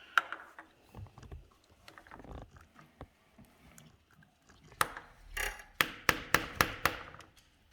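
Small plastic toy eggs being handled, with scattered clicks and knocks of hard plastic, then a quick run of about six sharp clicks near the end.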